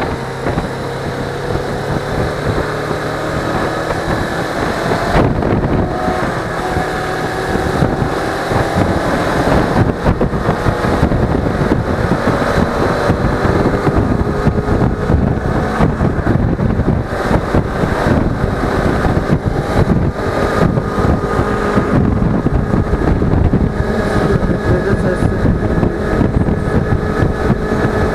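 Suzuki V-Strom 250's parallel-twin engine running under way on the road, its note rising and falling with the throttle, under heavy wind rush on the action camera's microphone.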